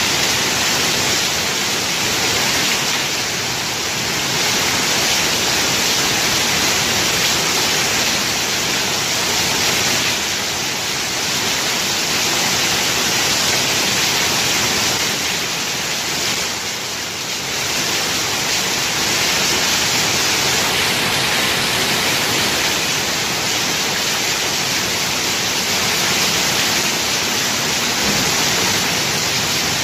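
Heavy rain falling steadily, a dense even hiss that eases slightly for a moment about halfway through.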